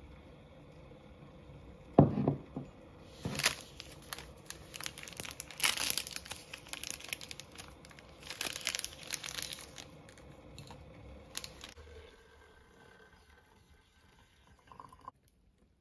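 A thump about two seconds in, then several bouts of crinkling and tearing as wrapping is handled, dying away after about twelve seconds.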